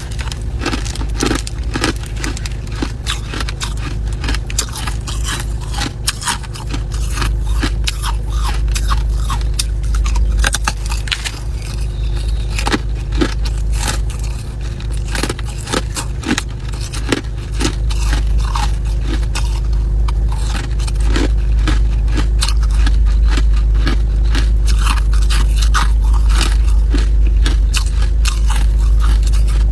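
Ice being bitten and chewed close to the microphone: a dense, irregular run of crunching cracks and crackles over a steady low rumble.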